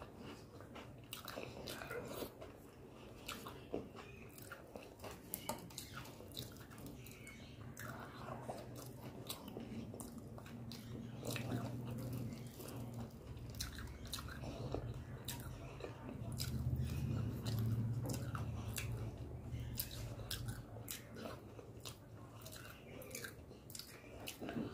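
Close-miked chewing and mouth sounds of a person eating rice, dal and fried topse fish with the fingers: a steady run of small wet clicks and crunches. A low hum swells up twice in the middle.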